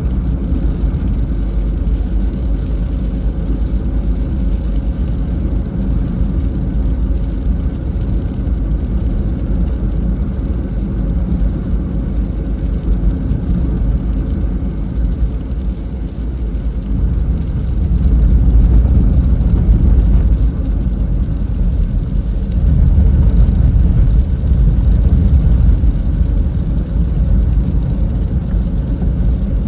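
Car driving in the rain: a steady low rumble of engine and tyres on the wet road, growing louder for a few seconds about two-thirds of the way through.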